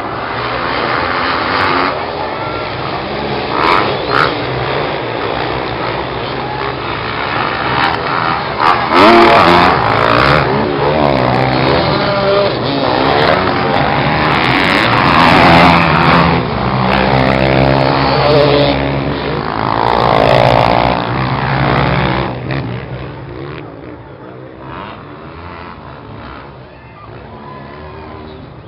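Motocross bike engines racing by, revving up and down as the riders shift and pass, loudest through the middle and dropping to a more distant engine drone near the end.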